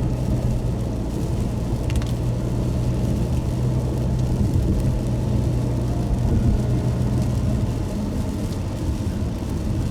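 A car driving along: a steady low rumble of engine and road noise, with a brief click about two seconds in.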